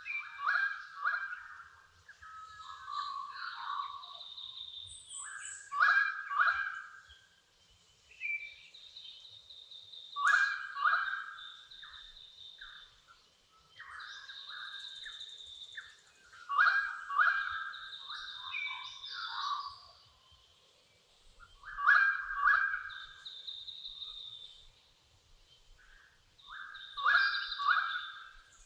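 Birds singing in a dawn chorus. A loud phrase of quick, clipped notes repeats about every five to six seconds, with higher drawn-out whistles between the phrases.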